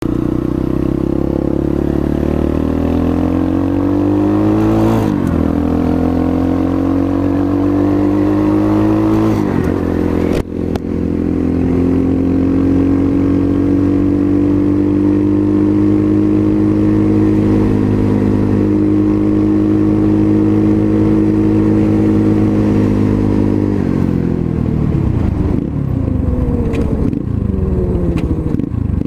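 A 250cc dirt bike engine accelerating hard, its pitch climbing through two gear changes about five and nine seconds in, then held at steady high revs for a long stretch. Near the end the revs fall away as the bike slows, with a few short blips of throttle on the downshifts.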